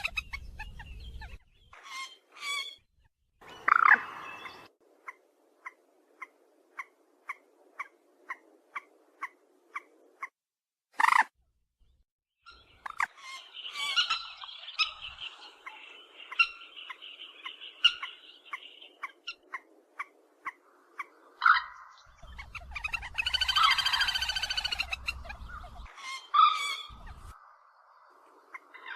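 Recorded calls of the rail Vietnamese bird hunters call 'cuốc biển': a run of short, evenly spaced notes, about two a second, followed by longer chattering calls and a loud call with several pitches near the end.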